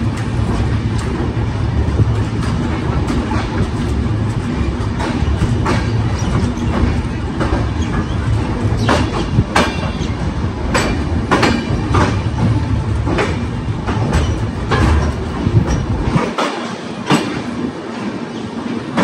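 Passenger train coach rolling into a station: a steady low rumble of the running gear, with the wheels clacking sharply over the track joints, most often in the middle of the stretch. Near the end the deep rumble drops away.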